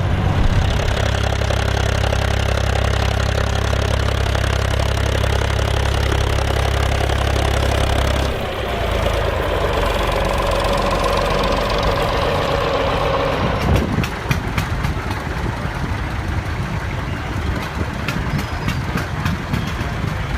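Tractor diesel engines running in the field: a steady deep engine note that changes abruptly about eight seconds in to a different engine with a slowly falling whine, then changes again about fourteen seconds in to a rougher, clattering sound with many sharp ticks.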